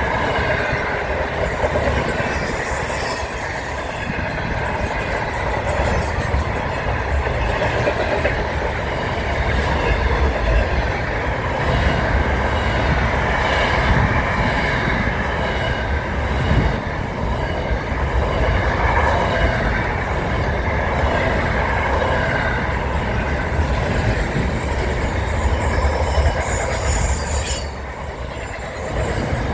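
A train running on its rails: a steady loud rumble with a high wheel squeal over it, dipping briefly near the end.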